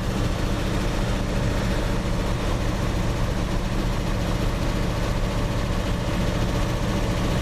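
Chevrolet 350 small-block V8 idling steadily with the choke off as it warms up, nearly at operating temperature.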